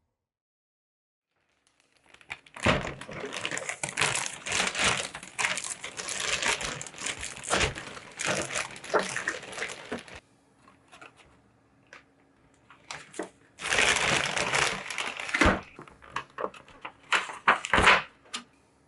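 Crinkling of packaging being handled. It starts about two seconds in, runs in a long irregular bout, then comes again in two shorter bouts near the end.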